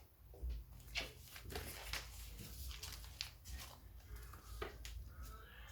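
Paper rustling and crinkling in short irregular crackles as a sheet is folded and pressed flat.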